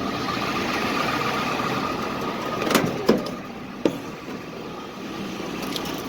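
Tractor engine running steadily, with three sharp metallic knocks near the middle.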